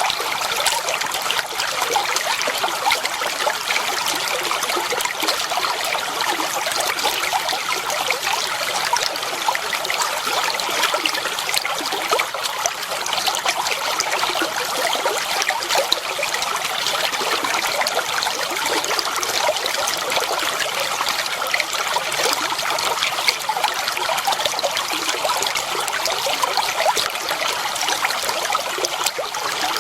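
Clear water flowing and trickling steadily, with a continuous splashing burble.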